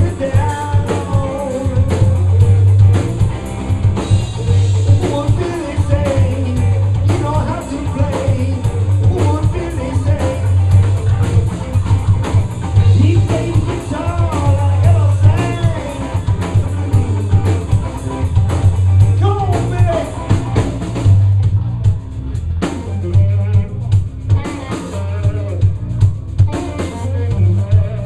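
Live blues band playing: drum kit, electric guitar and bass under a melody line that bends up and down. About two-thirds of the way through the high end drops away and the drum hits stand out.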